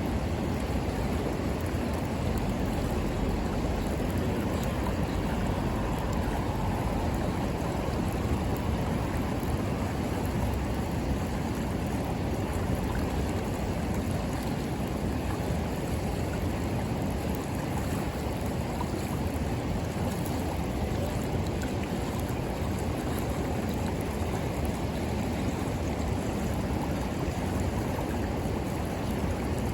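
River water rushing steadily, a constant even noise heavy in the low end.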